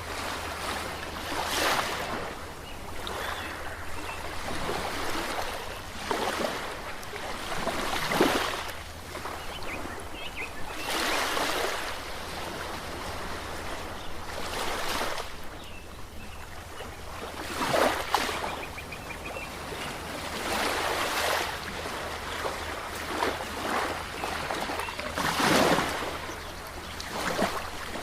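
Ocean waves washing in and falling back, about a dozen surges of surf that swell and fade every two to three seconds over a steady low rumble.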